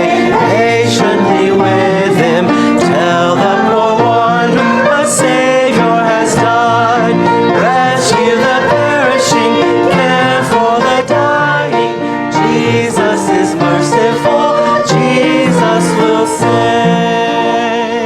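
Church hymn music: instruments playing with singing, a sharp percussive strike about once a second.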